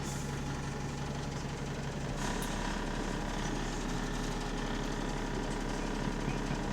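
Double-decker bus engine running with the rapid puffing rattle of an exhaust leak. The engine note changes about two seconds in.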